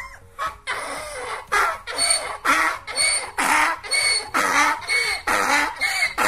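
Donkey braying: a run of hee-haw calls, high squealing notes alternating with lower ones about twice a second. The calls are quieter at first and louder from about a second and a half in.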